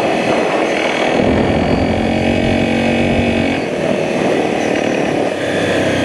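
Enduro dirt bike engine running as the bike rides along a rutted dirt track. The engine note changes about a second in and again a little past three and a half seconds.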